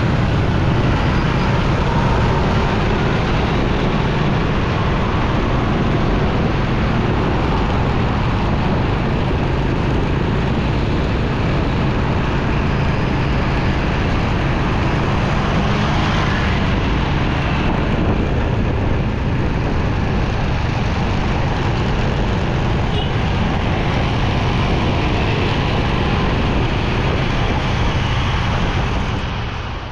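Motorcycle riding through city traffic: a steady low engine hum under constant wind and road noise, fading out near the end.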